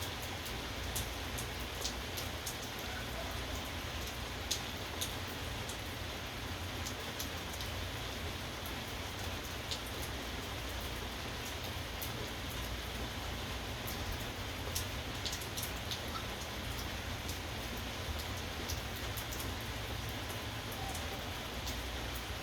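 Steady rain falling, with scattered sharp drops ticking on a nearby surface.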